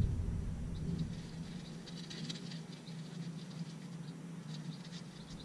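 Scattered small clicks and rustles of gloved hands handling wiring and small parts, over a steady low hum. A low rumble fades out in the first second.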